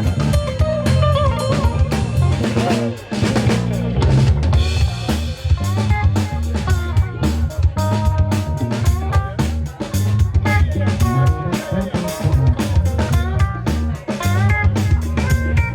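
Live funk-rock band playing an instrumental passage: a drum kit keeps a steady groove on kick, snare and rimshots under a busy bass guitar line, with guitar lines that slide in pitch, most clearly about three seconds in.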